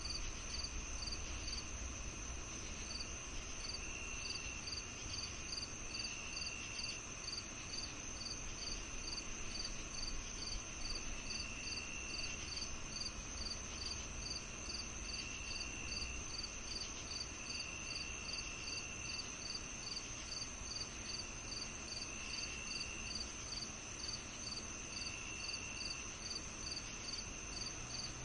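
Summer evening insect chorus: crickets chirping in an even pulse of about two to three chirps a second over a continuous high trill, with another insect adding trills about a second long every few seconds. A faint low rumble lies underneath.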